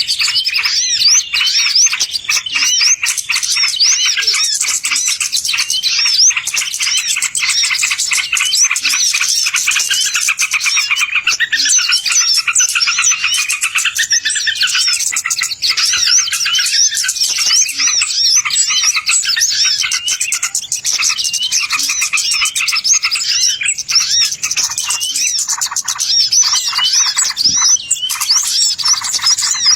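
Dense, unbroken chirping and twittering of many small birds calling over one another in quick, high notes: a bird-lure (pikat) recording of the kind played to draw wild birds in.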